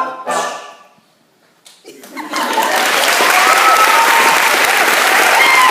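An a cappella group's final sung notes cut off. After about a second of quiet, the audience bursts into sustained applause and cheering.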